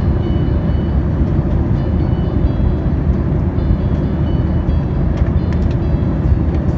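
Steady low rumble of an airliner's engines and airflow, heard inside the cabin. Faint high notes of music sit over it.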